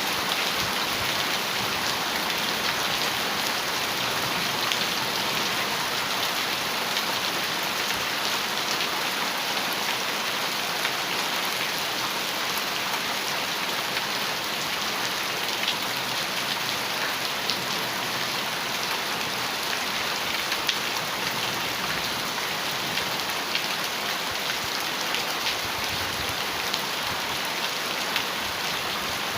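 Heavy rain falling steadily on a metal roof, with a dense patter of individual drop hits.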